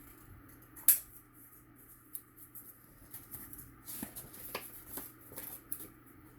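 Paper and cardstock being handled at a craft table: a sharp tap about a second in, then a run of small clicks and rustles.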